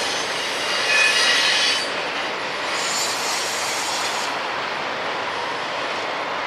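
Freight train rolling on the rails with steady wheel noise, and high-pitched wheel squeal about a second in and again around three seconds, fading after about four seconds.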